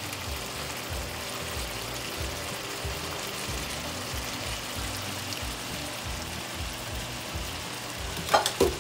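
Dried mushrooms and dried fish sizzling steadily in a hot stainless steel sauté pan, under background music with an even beat. A brief louder noise comes near the end.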